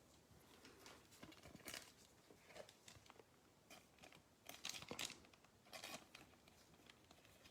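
Faint crinkling and rustling of trading cards and plastic being handled, in a few short scattered bursts.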